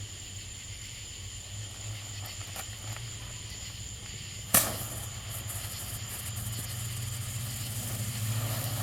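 A ground spinner firework burning in place with a steady hiss, getting a little louder toward the end, not spinning on the surface it sits on. One sharp pop about four and a half seconds in.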